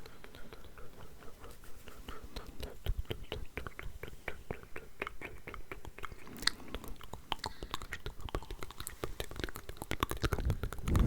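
Layered ASMR mouth sounds: a dense stream of wet clicks and smacks of the lips and tongue, growing louder near the end.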